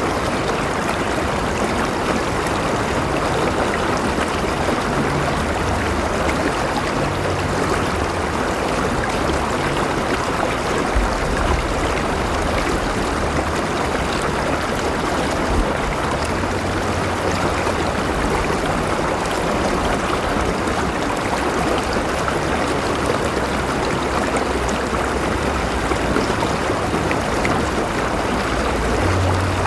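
River water flowing steadily over rocks, an even rushing with gurgling running through it.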